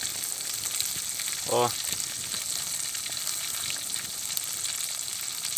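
Pieces of fish frying in a pan of hot oil over a wood fire: a steady sizzle with frequent small pops.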